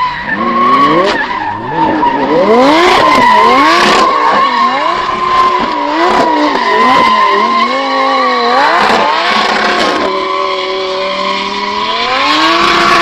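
Drift car engine revving hard, its pitch rising and falling quickly over and over as the throttle is worked, over a steady tyre squeal. About ten seconds in the revs hold steadier, then climb again near the end.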